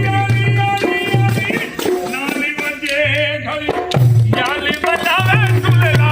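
Live Indian folk music: a hand drum keeps a steady rhythm under a melody that wavers in pitch and grows busier about four seconds in.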